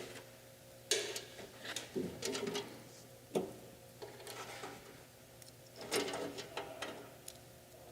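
Scattered metallic clicks and clinks of a ratchet and bolts as the bolts holding a chop saw's belt guard are worked loose, some in short runs of quick ticks, with pauses between.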